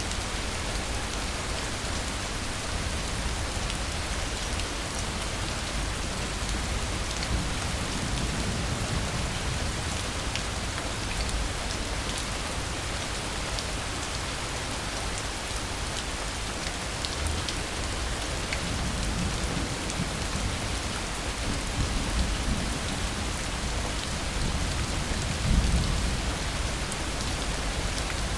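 Steady rain falling, with scattered drop ticks. Low rolls of distant thunder swell up a few times, the strongest near the end.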